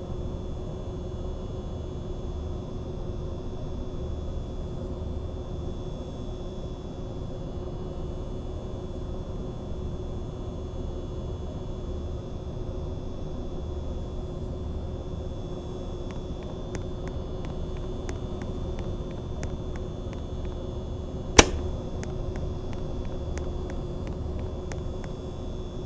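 Mistral ceiling fan running steadily: a rush of air with a steady motor hum and a low rumble that swells and fades. Faint ticking starts past the middle, and a single sharp click, the loudest sound, comes a few seconds before the end.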